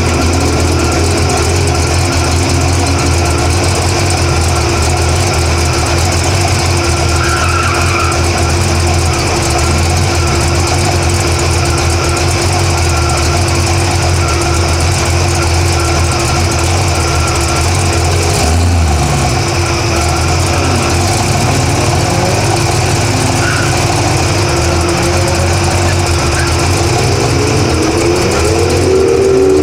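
Drag-racing Camaro's engine idling loudly and unevenly, with a steady whine held above the rumble. In the last few seconds, wavering rising-and-falling pitch sweeps come in over it.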